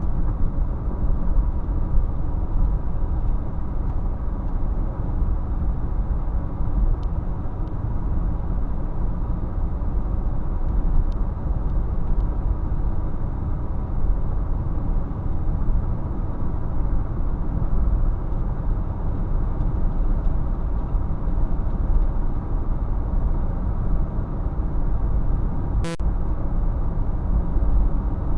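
Steady low rumble of a car driving, heard from inside the cabin, with a single sharp click about 26 seconds in.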